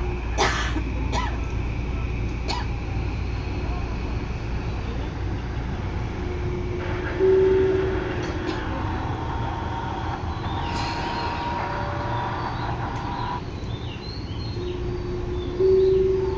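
Steady low hum of a Tobu 9000 series train standing at a station platform. A short tone sounds about every eight seconds, and there are a few sharp clicks in the first few seconds.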